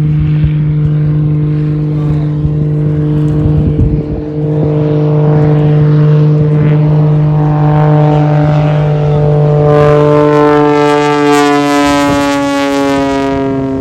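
Piston engine and propeller of a display aircraft running hard in a loud, steady drone. About eleven seconds in, the pitch drops as it flies past.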